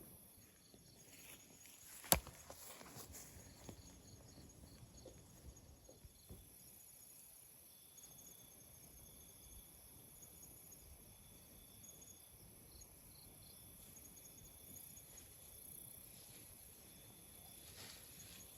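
Insects in the forest: a steady, very high trill with intermittent chirping like crickets, faint overall. A single sharp click about two seconds in.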